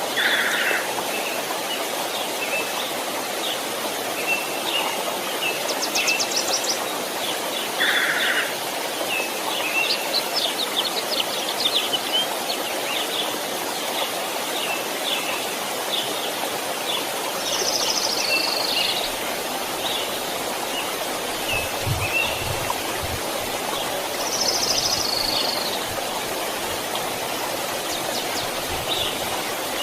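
Steady rush of a small stream, with songbirds chirping over it throughout; a descending call is repeated twice in the second half, and a few faint low thumps come about two-thirds through.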